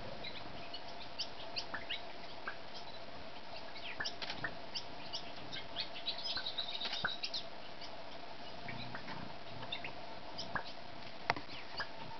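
Small birds giving many short, high chip notes at a nectar feeder, scattered irregularly with a dense flurry about six to seven seconds in, over a faint steady hum.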